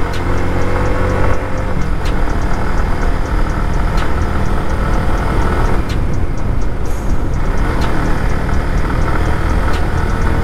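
Motorcycle engine running while riding, a steady low drone.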